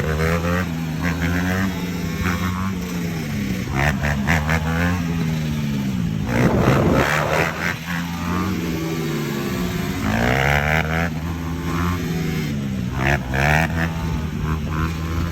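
150cc Honda dirt bike engines revving, the pitch falling and climbing again every few seconds, with overlapping engine notes. A louder rush of noise comes about six to seven seconds in.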